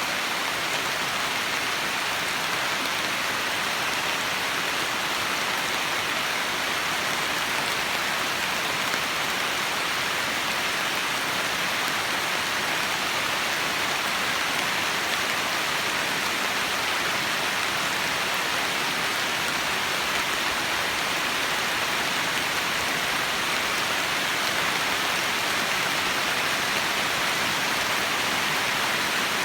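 Heavy monsoon rain falling in a steady downpour, an even hiss of rain on surfaces that holds at one level throughout.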